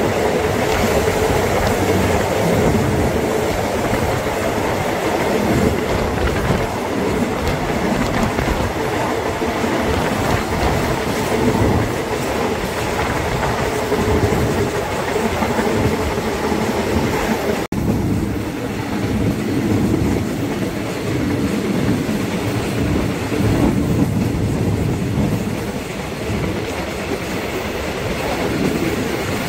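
Passenger train running steadily along the rails, with the continuous rumble and clatter of wheels on track. The sound briefly cuts out for an instant about 18 seconds in.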